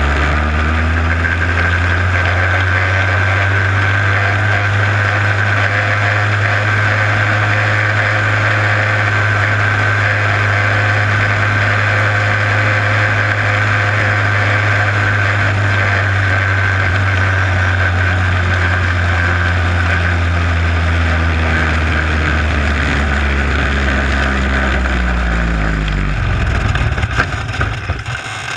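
A race car's starter cranking the engine at a steady pitch without it catching. The pitch falls as the cranking slows over the last several seconds, then it ends in a few irregular knocks.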